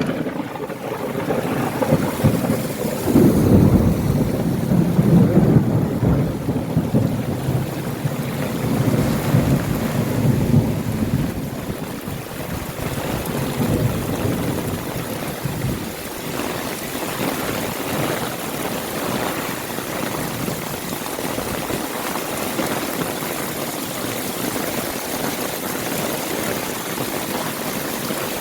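Heavy rain pouring steadily, with a low rolling rumble of thunder over the first ten seconds or so that fades away, leaving only the rain.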